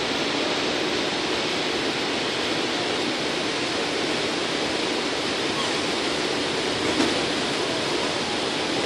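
Steady rushing noise inside an AirTrain JFK car running along its track.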